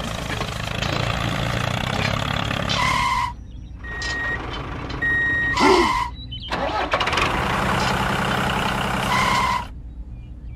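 Tractor engine running steadily, with a few short electronic beeps like a reversing alarm; the engine sound drops out briefly twice and stops near the end.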